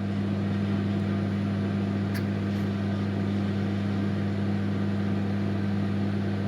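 Microwave oven running with a steady electrical hum while the cake bakes, with one faint tick about two seconds in.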